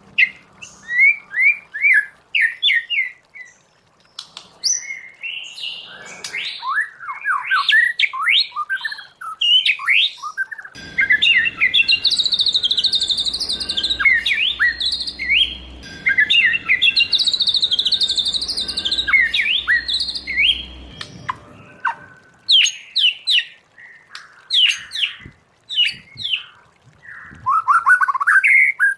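White-rumped shama singing a long, varied song of sweeping whistled phrases and quick trills, with a dense, rapid run of notes lasting about ten seconds in the middle.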